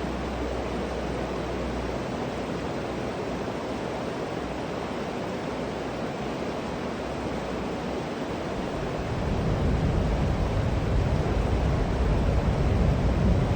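Steady rushing of river water. A low rumble builds from about nine seconds in and grows louder.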